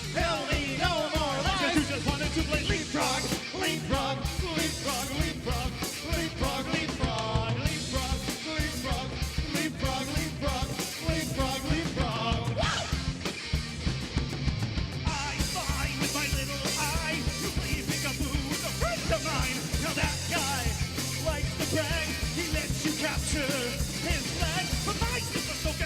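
Rock band playing a song: a lead singer over a drum kit and other instruments in a fast, punk-tinged rock style.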